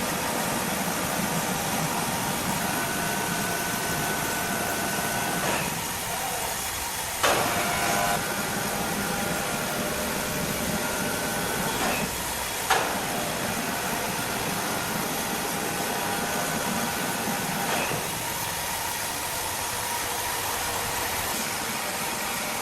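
A machine running steadily with a hiss, broken by a few sharp knocks.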